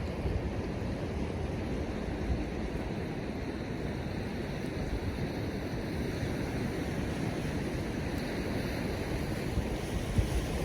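Ocean surf washing on the beach, with wind buffeting the microphone; the gusts get stronger near the end.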